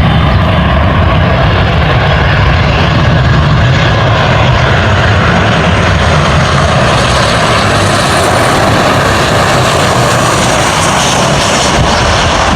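Airliner on its landing approach passing close by, its engines a loud, steady noise, with a faint high whine that drops a little in pitch about halfway through.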